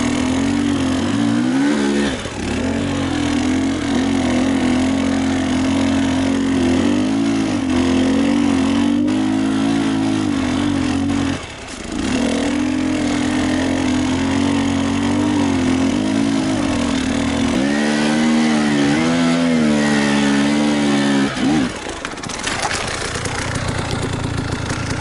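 Enduro motorcycle engine running under load, its pitch rising and falling as the throttle is opened and closed, with a brief drop about eleven seconds in. About three-quarters of the way through the engine sound stops and an even rushing noise is left.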